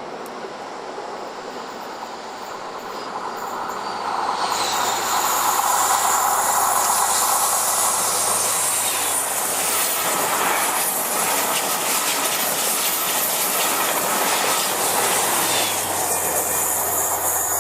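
Diesel train passing close by, growing louder about four seconds in, its wheels clicking over rail joints with a high squeal from the wheels on the rails.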